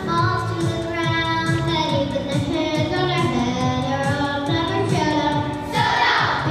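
Children singing a song with instrumental accompaniment, a steady beat underneath, growing louder and noisier about six seconds in.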